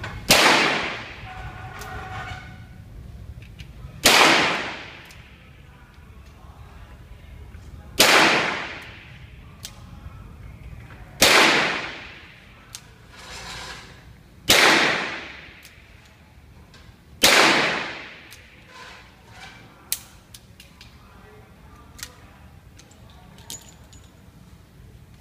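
Six shots from a .38-calibre revolver, fired one at a time about three to four seconds apart, each followed by about a second of echo. A few light clicks follow the sixth shot.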